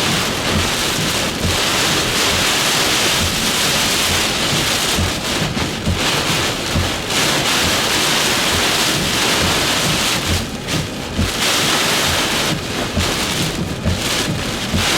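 Hurricane-force wind and heavy rain in a Category 4 hurricane's eyewall, a loud continuous roar that eases briefly twice in the second half, with wind buffeting the microphone.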